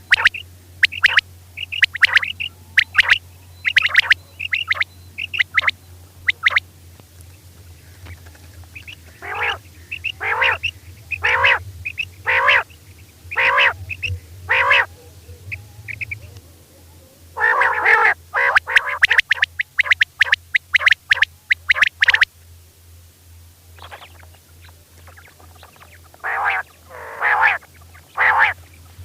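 Female quail calling: short, hoarse notes repeated in bouts, about one a second in the middle, then a fast run of calls, then a few more near the end. A steady low hum runs underneath.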